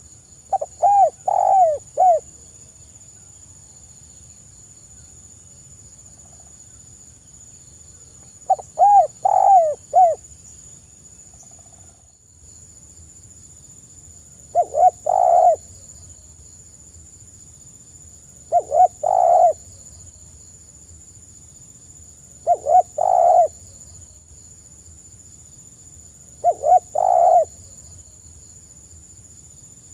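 Spotted dove cooing: six phrases of three or four short coos, one roughly every four seconds. A faint steady high whine runs underneath.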